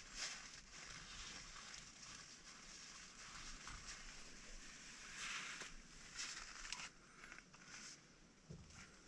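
Faint, irregular rustling and crunching, like a person moving through dry leaves and brush.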